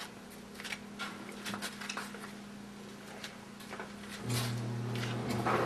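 Scattered light clicks and taps, then about four seconds in a jacuzzi's pump motor starts up with a steady hum and a rushing noise that grows louder.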